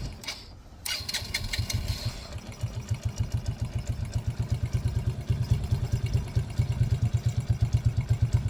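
Yamaha Raptor 80's small four-stroke single being cranked on its electric starter, with the starter's whine, then catching about two seconds in and settling into a steady, even idle. Its idle mixture screw is set at a turn and a half while the warm idle is being tuned, after the engine had been dying at idle once warm.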